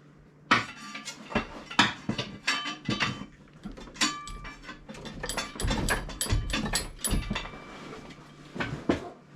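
Metal tools and parts clinking and clattering in a string of sharp knocks, with a few short ringing metal strikes between about four and seven seconds in.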